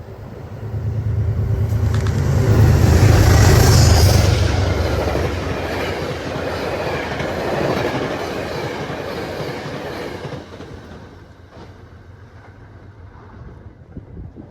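Metro-North commuter train passing at speed: a low hum with wheel rumble and clatter on the rails swells to its loudest about three to four seconds in, then fades away over the next several seconds.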